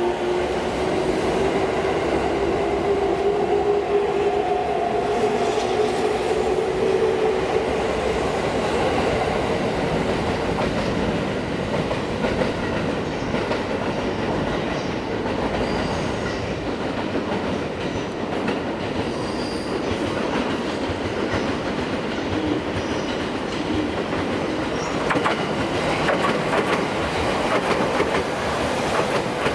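Electric train running by: continuous wheel-on-rail noise with clatter over the rail joints, and a motor whine that rises slightly in pitch over the first several seconds before it is lost in the running noise.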